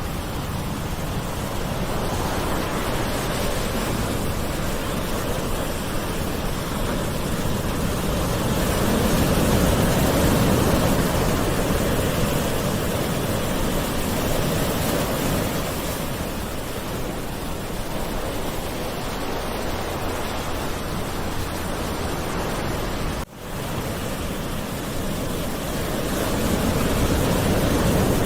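Gentle ocean waves washing on a shore: a continuous surf wash that swells louder about ten seconds in and again near the end. A momentary break in the sound comes a little after twenty seconds.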